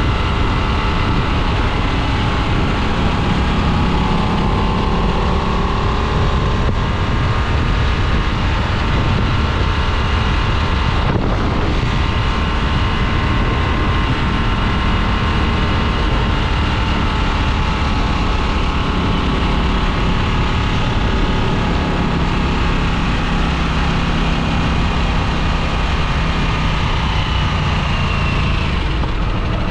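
2022 Harley-Davidson Nightster's liquid-cooled Revolution Max 975T V-twin running on the road at a steady cruise, with wind rushing over the microphone. The engine note shifts and rises near the end.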